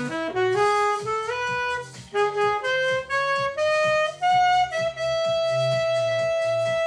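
Alto saxophone playing a melody that climbs in short steps, note by note, then settles on one long held note in the last couple of seconds. A steady low rhythmic pulse from an accompaniment runs underneath.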